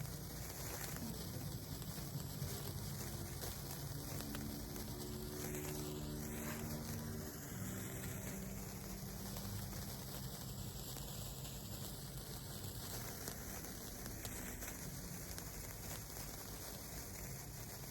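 A garden firework fizzing and crackling steadily as it burns.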